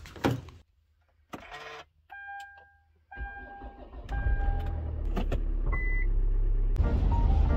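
Car door knocking shut, then dashboard chimes and an automatic SUV's engine starting by push-button about three to four seconds in and settling into a steady idle, with a short beep near six seconds.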